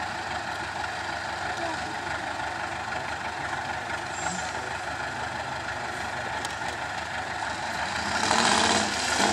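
IFA W50 truck's four-cylinder diesel engine running steadily, with a loud hiss rising about eight seconds in.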